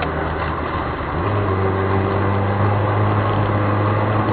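A car's engine and road noise as a steady low drone. About a second in, the drone steps up in pitch and grows louder, as when the car pulls away or speeds up.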